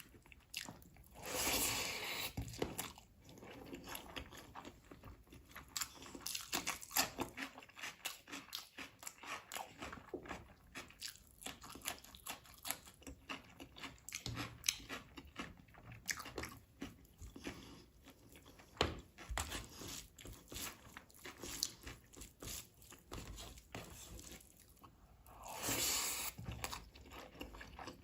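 Close-miked eating: chewing and biting with crunches and wet mouth clicks throughout, from a meal of chicken leg-piece curry and rice. Two longer, louder noisy stretches stand out, about a second and a half in and near the end.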